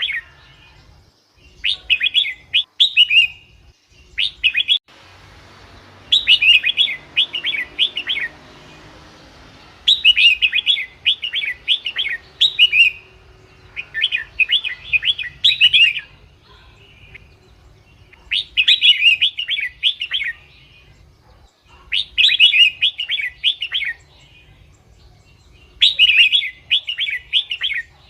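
Red-whiskered bulbul singing: short, fast warbling phrases of one to three seconds each, about seven of them, repeated every few seconds with brief pauses between.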